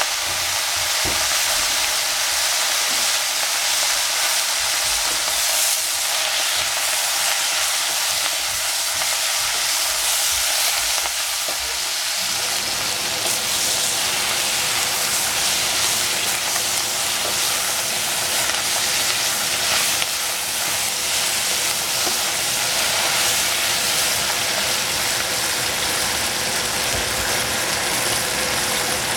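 Leftover salad vegetables sizzling in hot cooking oil in a stainless steel saucepan, a steady frying hiss. From about twelve seconds in, they are stirred with a wooden spoon.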